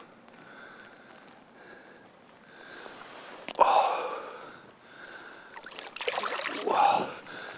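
Water splashing twice as a big pike is let go back into the lake: a sudden splash about three and a half seconds in, then a longer slosh near the end.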